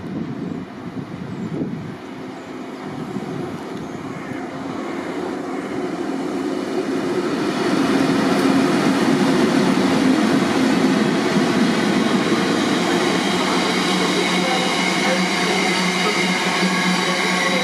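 A train approaching through the station, growing louder over the first several seconds, then running past close by and steadily loud. A set of steady whining tones sits over the rumble of the wheels.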